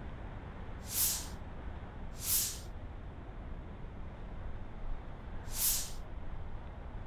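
Strong gusty wind buffeting the microphone as a low, uneven rumble, with three short hissing bursts about a second, two and a half seconds and five and a half seconds in.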